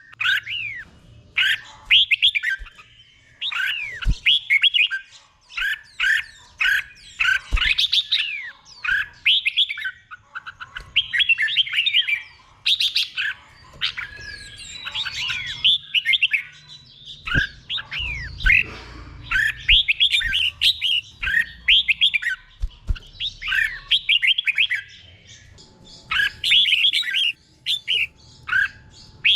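Red-whiskered bulbul singing in the 'doubled' song style: quick whistled phrases, one after another with short gaps. A few faint knocks come in under the song.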